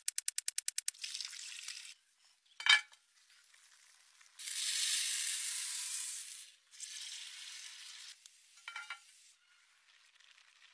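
Raw chicken pieces sizzling in hot oil in a steel karahi, the hiss coming in stretches of a second or two, loudest about halfway through. A sharp metal clink comes a few seconds in and a softer one near the end, and a quick run of ticks opens the clip.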